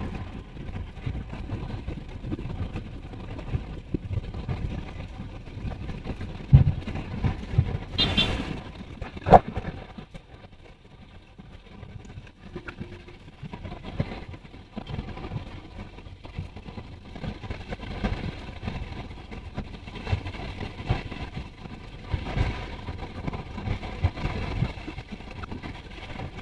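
Car on the move: steady road and engine noise, with a few low thumps and a short, sharp higher sound about eight seconds in.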